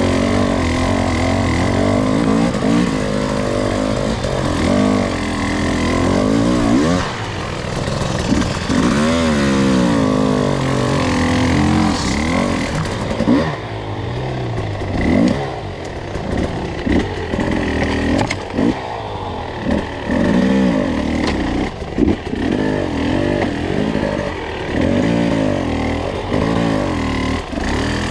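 Two-stroke enduro dirt bike engine working up a slippery trail, its revs rising and falling every second or two with short throttle blips, as the rider feeds throttle for traction.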